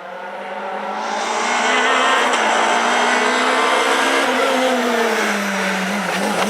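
Renault Clio R3 rally car's two-litre four-cylinder engine coming closer under hard throttle, growing louder over the first two seconds. The engine note holds high, then falls in pitch about four seconds in and starts climbing again near the end.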